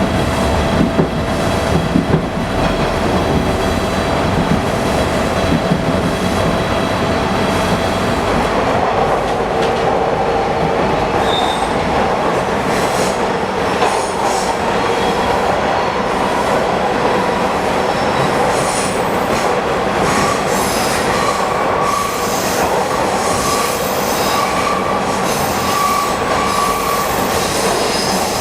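Bombardier T1 subway car running between stations, heard from inside: a steady rumble of wheels on rail with a high whine. From about two-thirds of the way through, a higher squeal comes and goes.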